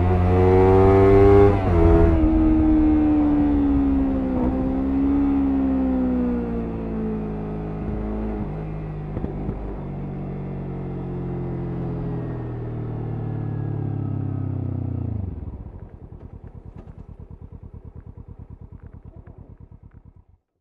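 Kawasaki Ninja 300 parallel-twin engine revving, then running down slowly in pitch as the bike slows. About fifteen seconds in, the engine sound cuts off abruptly, and a fast regular ticking follows and fades out.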